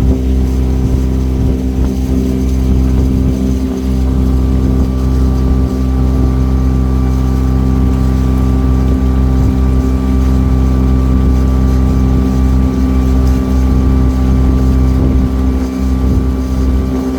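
Cruise boat's engine running at a steady speed: a constant low drone that holds one pitch, with a thin steady whine above it.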